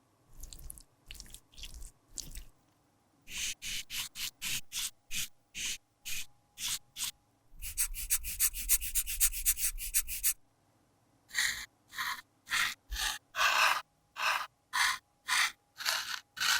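Short scraping strokes on a cosmetic product, roughly two a second, with a quicker continuous run of strokes in the middle.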